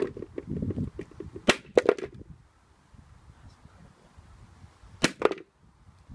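Standard hammer striking the shell of a Shred Ready Super Scrappy kayaking helmet: three sharp cracks about a second and a half in, then two more close together about five seconds in.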